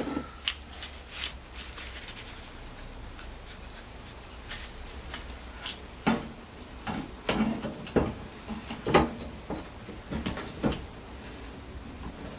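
Irregular clinks, taps and knocks of metal objects being handled, about a dozen scattered through, loudest around eight to nine seconds in.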